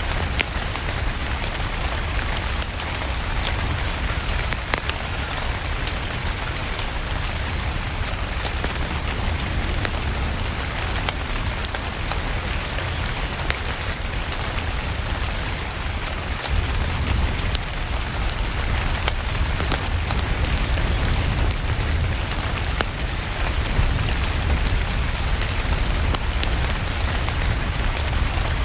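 Steady rain with a deep low rumble underneath and scattered sharp ticks throughout.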